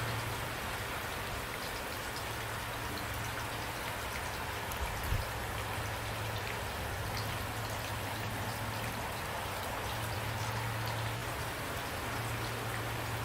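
Steady rain falling, a dense even patter of drops, with a constant low rumble underneath and one brief low thump about five seconds in.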